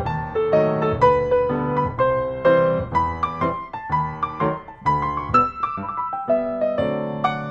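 Background piano music: single piano notes played at an even, gentle pace, each ringing and fading.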